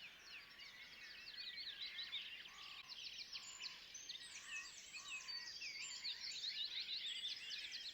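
Faint woodland chorus of many small songbirds chirping and trilling over one another, with a few lower, evenly spaced call notes in the middle.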